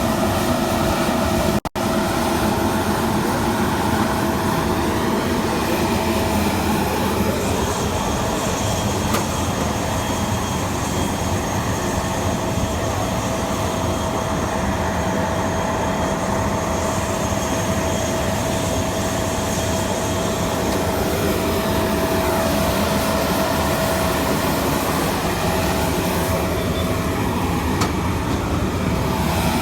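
Aircraft engines running on a runway: a loud, steady rushing noise with a constant whine held through it, cut out for an instant about two seconds in.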